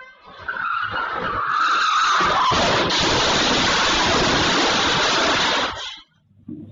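Vehicle tyres skidding on the road with a squeal that slowly falls in pitch, followed by a harsh rushing noise that cuts off abruptly near the end.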